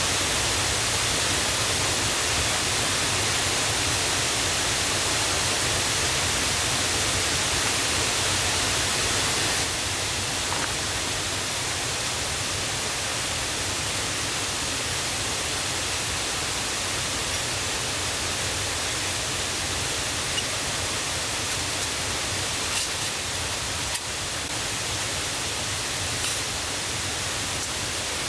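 Steady rush of a rain-swollen mountain river, running loud and high after rain. It drops a little in level about ten seconds in, and a few faint clicks come near the end.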